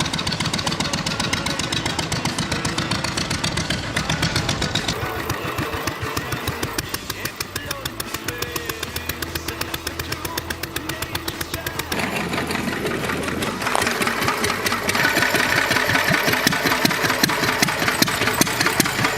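Single-cylinder 1936 Lister D engine running on a motorcycle, a fast even beat of firing strokes that gets louder over the last few seconds.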